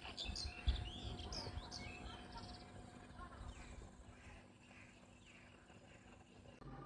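Small birds chirping in quick, short calls, busiest in the first couple of seconds and fading after that, with a low thump just under a second in.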